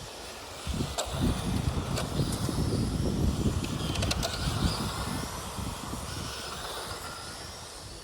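Electric RC model trucks driving past, motor whine over a rumble of tyres, swelling about a second in and fading off after about five seconds.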